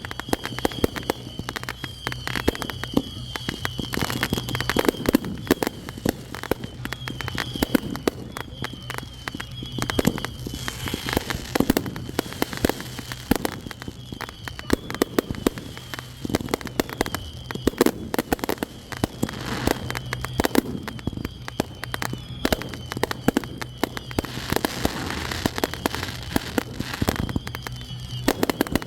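Fireworks going off in a dense, continuous barrage of pops and crackles, with louder bangs scattered throughout.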